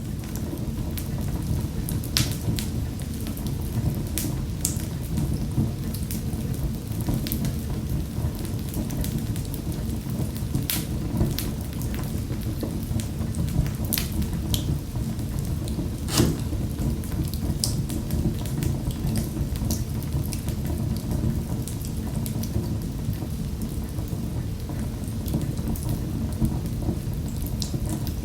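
Wood fire burning in a fireplace: a steady low rush of flames with irregular sharp crackles and pops from the burning logs, one louder pop about 16 seconds in.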